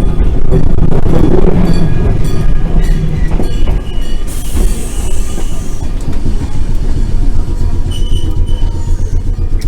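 Keifuku Randen tram heard from inside the car, running along the track with a steady heavy rumble. Several short high-pitched wheel squeals come through it.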